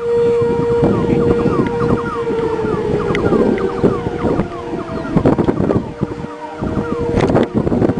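Warning sirens sounding during a tornado warning: one steady held tone, a rapidly repeating falling yelp, and a slower wail that falls in pitch through the middle. Gusty wind noise on the microphone runs under them.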